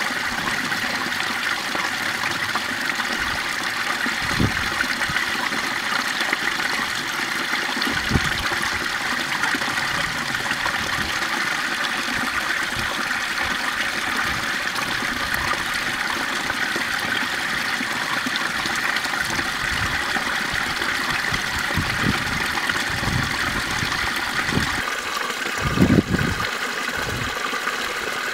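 Flowing water rushing steadily, with a few low thumps, the loudest near the end.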